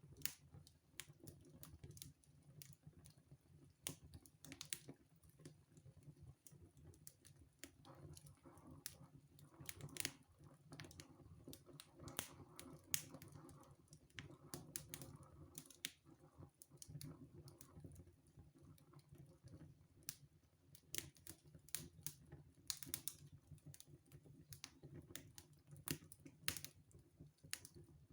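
Wood fire in a fireplace crackling faintly: irregular sharp pops and snaps over a low steady rumble.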